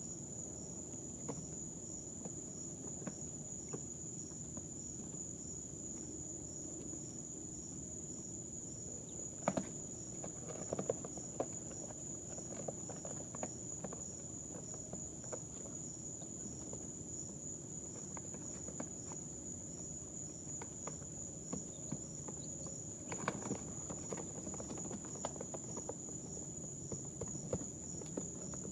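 A steady high-pitched whine or chirring throughout, with scattered soft taps and scratches from baby chicks shifting in their bedding; a sharper tap comes about nine seconds in and a small cluster a little past the middle.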